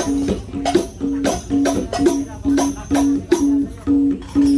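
Hadrah percussion ensemble playing a steady rhythm: a low pitched drum note about twice a second under sharp hand-drum slaps and tambourine jingles. The last low note near the end is held and rings on.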